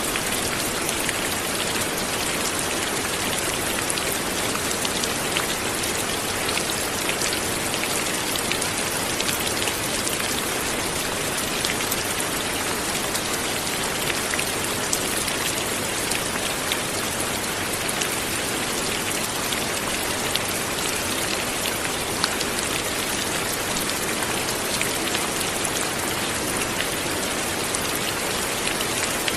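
Light, steady rain falling, a constant hiss with the small ticks of separate drops landing on a surface.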